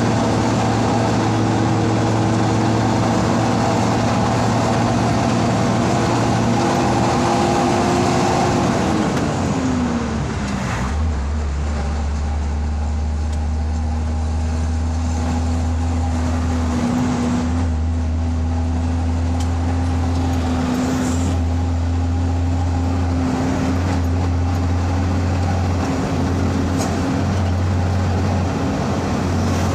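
Truck engine running steadily under road noise while driving, its revs dropping about nine seconds in and then holding at a lower, steady pitch.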